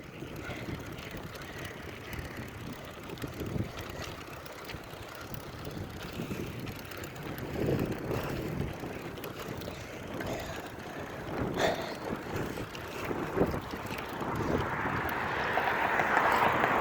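Riding noise of a bicycle going fast: wind on the microphone with scattered knocks and rattles from the bike. The rushing noise grows louder near the end.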